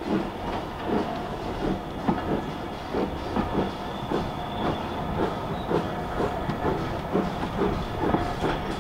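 Train running along the track, its wheels clicking and knocking over the rail joints in a steady run of beats a few times a second.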